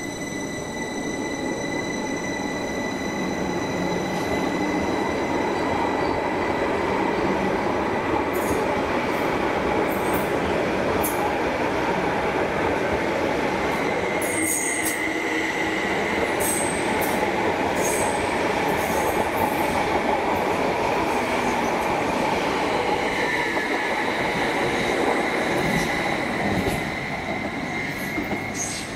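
Greater Anglia electric multiple unit pulling out of the platform: a steady high whine from its traction motors over the rumble of wheels on rail, with short high wheel squeals in the middle stretch. The sound falls away near the end.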